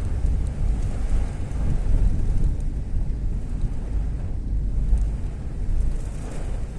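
Heavy rain falling steadily, with a strong low rumble of wind buffeting the microphone and faint scattered ticks of drops.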